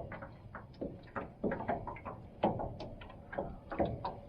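Irregular light knocks and rustling, several a second, with no steady engine or motor sound.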